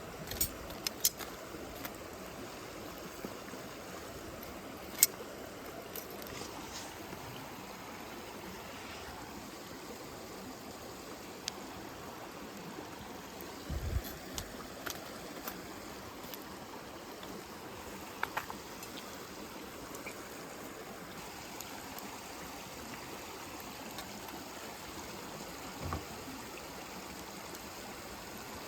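Wood campfire burning: a steady rushing hiss with scattered sharp crackles and pops, the loudest about five seconds in. A soft low thump comes near the middle and another near the end.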